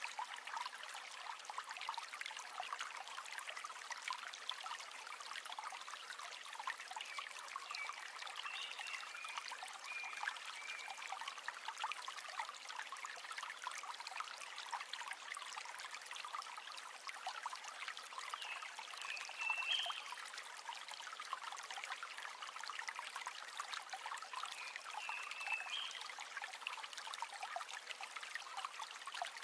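River water flowing in a steady, even trickling rush.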